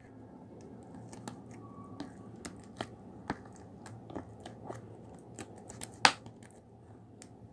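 Green slime being squeezed and pressed by hand, making irregular small clicks and pops, with one louder pop about six seconds in.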